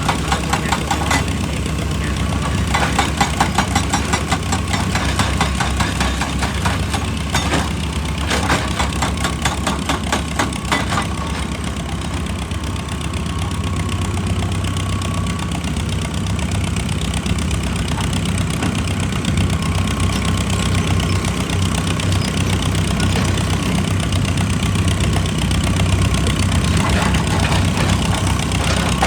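Excavator's diesel engine running steadily, with dense rattling and clattering through roughly the first ten seconds that then dies down.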